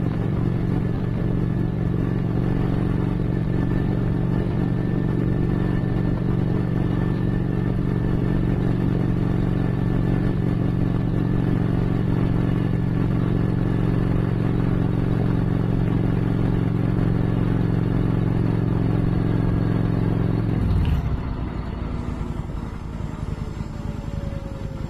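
Motorcycle engine running steadily at cruising speed with wind noise. About 21 seconds in, the engine note drops off suddenly and the sound gets quieter, with a faint falling whine near the end.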